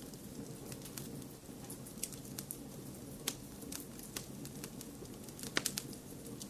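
Wood fire crackling: scattered, irregular pops and snaps over a steady low rumble, with a quick burst of louder pops near the end.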